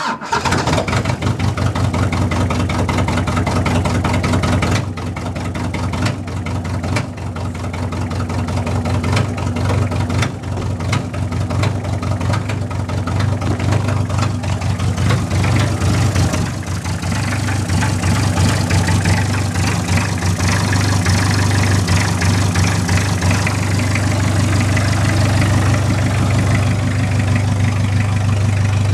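VW Taro's 2.4 L diesel engine, straight-piped with no exhaust, catching on a cold start at about −12 °C after sitting a week, then running loud. The idle is uneven for the first fifteen seconds or so and steadies toward the end.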